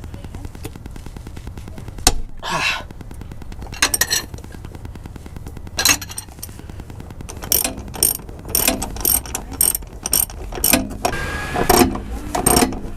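Ratchet wrench and socket working on a transmission plug: scattered metal clicks and clinks, then a run of quick ratcheting clicks past the middle.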